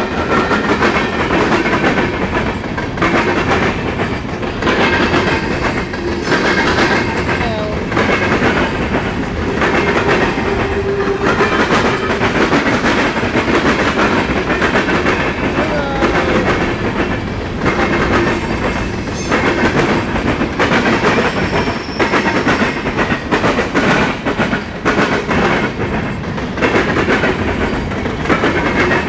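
Cars of a mixed freight train rolling steadily past, wheels clacking over the rail joints in an ongoing rattle and rumble.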